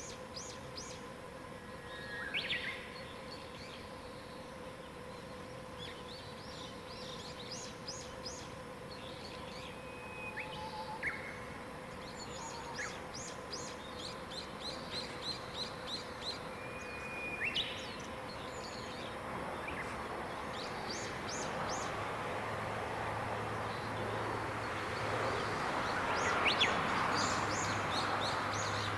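Songbirds singing in mountain woodland: rapid series of short, high repeated notes and a few slurred whistles from several birds. A faint steady hum sits underneath, and in the last third a rushing noise with a low hum swells up and grows louder.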